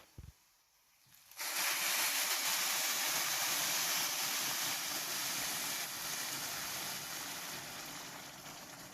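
Hot boiled water poured into a pot of rice just fried in ghee, with a loud hiss and sizzle that starts suddenly about a second and a half in and slowly dies down.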